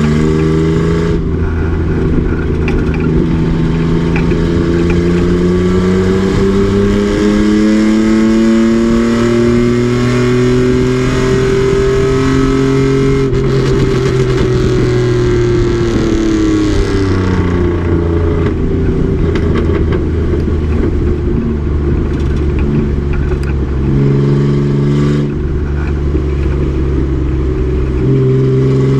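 Race truck's engine pulling hard, its pitch climbing steadily for about twelve seconds as it accelerates, then dropping away as the throttle comes off, and running at lower revs through the rest.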